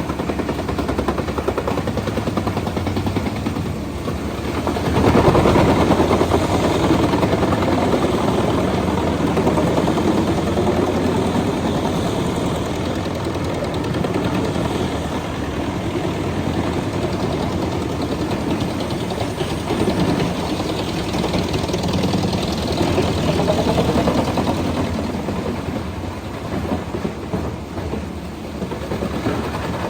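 Lippel Dragon 1200 forestry wood chipper running under load, chewing through a bundle of eucalyptus logs: a loud, steady, heavy mechanical din of engine and chipping that swells louder about five seconds in.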